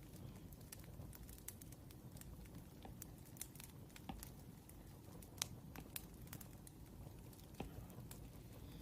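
Wood fire crackling faintly: irregular sharp pops and snaps over a low steady rumble, one louder snap about five and a half seconds in.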